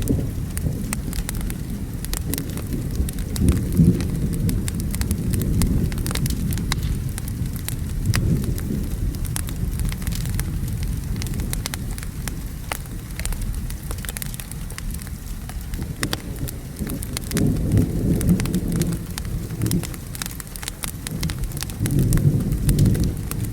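Steady rain with thunder rolling in low rumbles that swell several times, mixed with a wood fire crackling and popping in many sharp little clicks.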